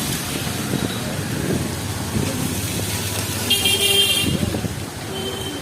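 Street traffic running, with a vehicle horn tooting once, high-pitched, for under a second about three and a half seconds in.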